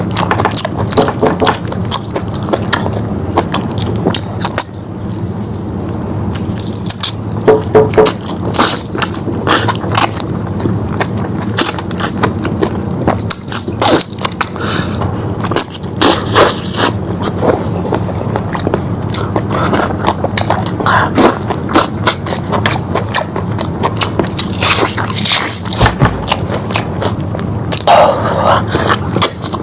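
Close-up chewing and biting of lamb meat, with irregular wet smacks and crunchy clicks over a steady low hum.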